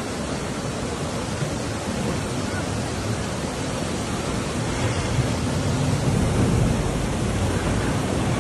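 Steady rush of fast-flowing floodwater, a dense roar of noise that grows somewhat louder about five seconds in.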